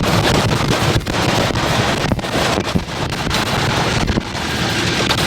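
Wind rushing over the microphone, with the low, steady running of an old Kenworth semi truck's diesel engine underneath.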